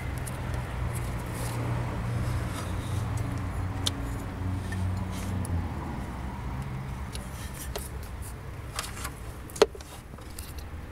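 A vehicle engine running steadily, then getting quieter about halfway through, with scattered light clicks and one sharp click near the end.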